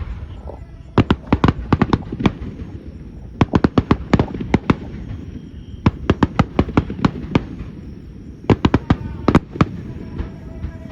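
Aerial fireworks bursting in four quick volleys of sharp, rapid cracks, each volley about a second long, over a low steady rumble.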